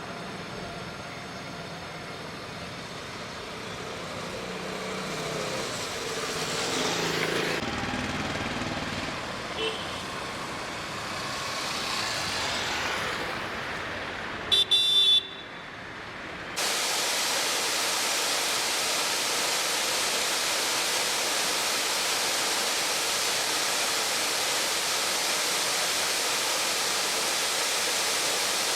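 Road traffic passing, with a vehicle horn honking briefly about halfway through. Then an abrupt cut to the steady rush of a waterfall in full flow after heavy rain.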